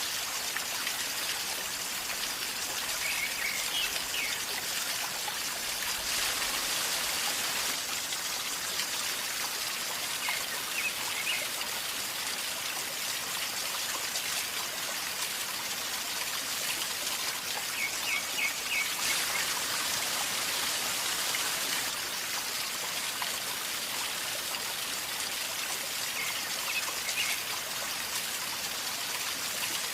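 River water flowing steadily with a gurgling, trickling sound. Brief bird chirps come through a few times.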